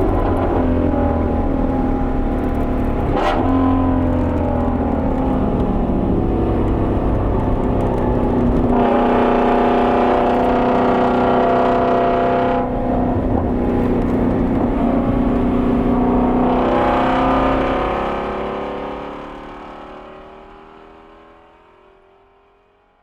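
Ford Mustang Shelby GT350R's flat-plane-crank V8 running hard on track, its pitch rising and falling with several short breaks, then fading out over the last few seconds.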